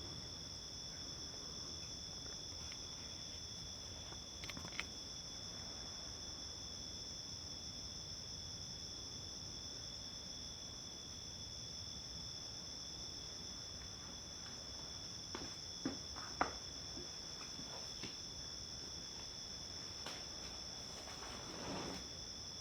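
Summer-night insect chorus, crickets: a steady, unbroken high-pitched trilling at two pitches. A few faint clicks come about five seconds in and again twice past the middle, with a short soft rustle near the end.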